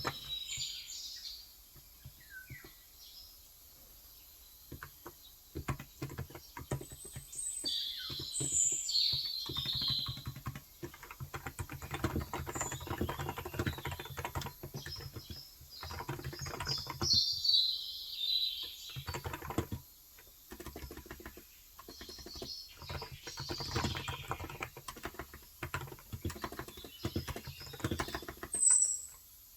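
Typing on a Cox Endeavour electrostatic capacitive (Topre-style) tenkeyless keyboard with 35 g switches: runs of quick keystrokes broken by short pauses. Small birds chirp in short bursts several times over it.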